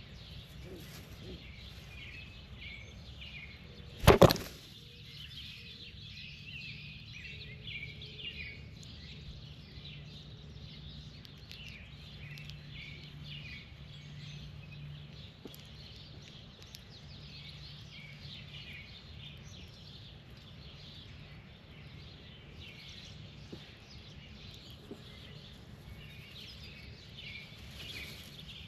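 Birds chirping and chattering continuously. About four seconds in there is one sudden loud thump close to the microphone. A faint low hum runs under the middle stretch.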